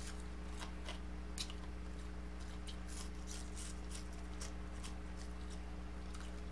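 Chewing on deep-fried whole tilapia: scattered short crisp clicks and mouth smacks over a steady low hum.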